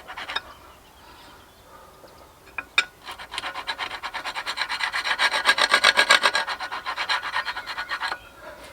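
Rapid, even rasping strokes of a hand tool scraping steel flat bar, several strokes a second, starting about three seconds in, growing louder, and stopping abruptly near the end.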